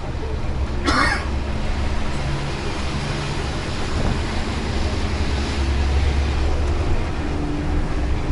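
Bus engine and road noise: a steady low rumble under an even hiss, with one brief, sharp, higher-pitched sound about a second in.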